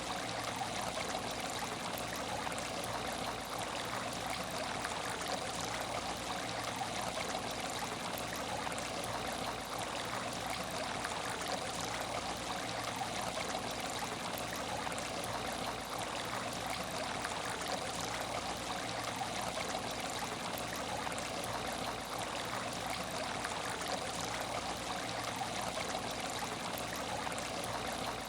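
Water in an aquarium tank trickling and splashing steadily, an even unbroken running-water sound.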